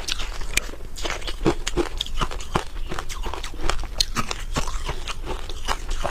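Freezer frost being bitten and chewed close to the microphone: an irregular run of crisp crunches, several a second.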